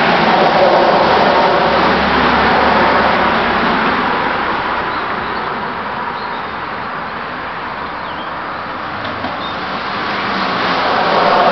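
1977 Chevrolet C10 pickup with a Flowmaster exhaust driving past: the engine and exhaust fade away, then grow louder again near the end as the truck comes back.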